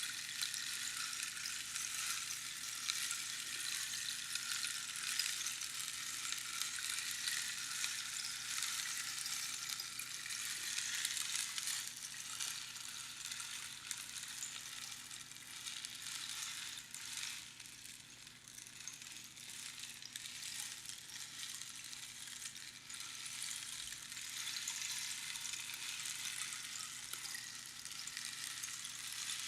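A rainstick, with small pebbles or beans trickling down over the pins inside the hollow cactus tube, making a continuous rain-like patter. It thins out a little past the middle, then builds again as the stick is turned.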